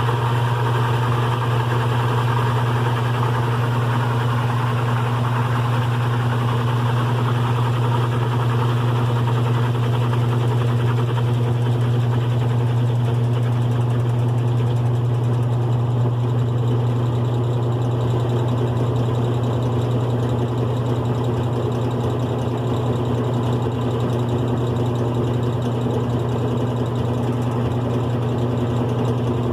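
GE Profile top-load agitator washing machine running with its single-speed motor, a steady low hum, with a higher whirring noise that eases off about halfway through.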